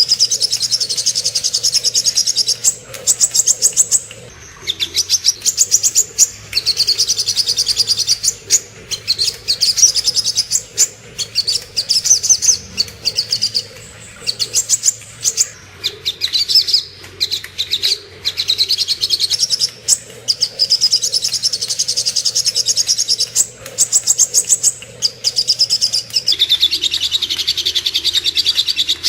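Recorded song of a sogok ontong (spiderhunter): fast, high-pitched chattering trills in phrases of one to three seconds, repeated with short breaks. It is a masteran/pancingan track meant to tutor caged songbirds and provoke them into singing.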